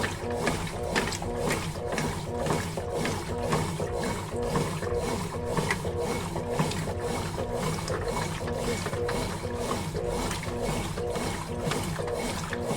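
Consul Facilite CWG11 top-load washing machine in its wash cycle: the motor hums while the drum mechanism clicks and knocks at about two strokes a second.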